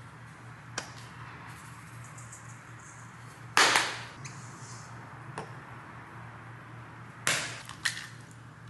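Kitchen clatter: a few sharp knocks of pots, dishes or utensils being handled, two of them loud, over a steady low hum.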